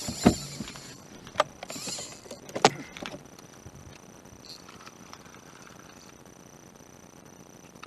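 Three sharp knocks, about a second apart, of gear bumping against a fishing boat, mixed with short hissing or splashing bursts; then the sound drops to a faint steady background.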